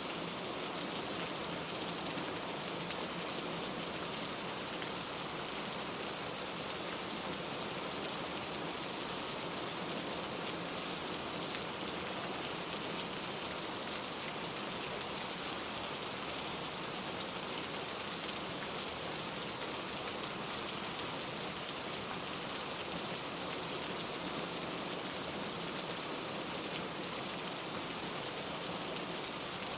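Steady rainfall, an even hiss of drops with faint scattered patters, unchanging throughout.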